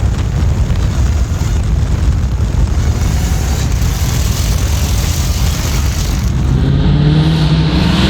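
Dodge Hellcat Redeye Jailbreak's supercharged 6.2-litre HEMI V8 with a loud aftermarket exhaust, a heavy rough exhaust drone with road noise while cruising. About six and a half seconds in, the engine note rises as the car accelerates.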